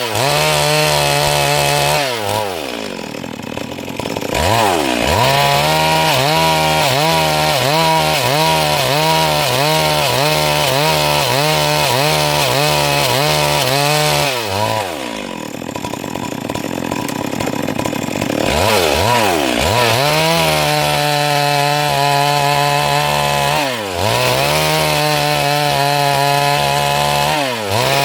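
Stihl MS 382 two-stroke chainsaw running at high revs while ripping a Siris log into boards, its engine note wavering under the load of the cut. The revs drop away and climb back twice, briefly about two seconds in and for about four seconds midway, with two short dips near the end.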